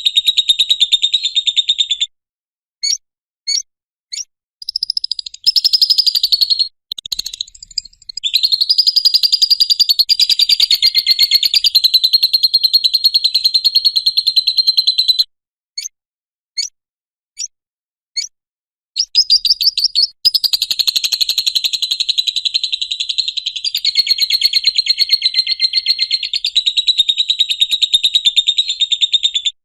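Lovebird 'ngekek': long runs of rapid, rattling high chatter, each held for several seconds, the longest from about 8 s to 15 s. Between the runs come gaps broken by short single chirps. This long unbroken chattering is the song style that lovebird keepers prize.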